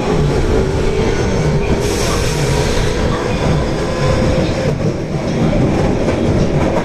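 Osaka Metro Tanimachi Line subway train running: a steady rumble of wheels on rail with a steady motor whine over it.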